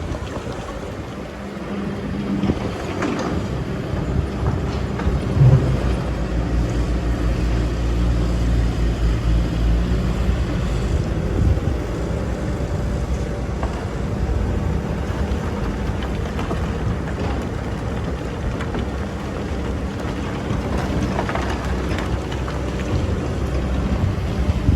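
Excavator's diesel engine running steadily under working load, with a brief louder surge about five and a half seconds in.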